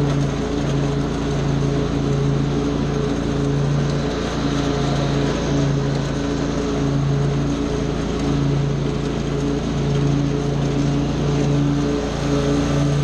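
Small gasoline engine of a lawn power tool running steadily at high speed, its tone swelling and dipping slightly every second or so.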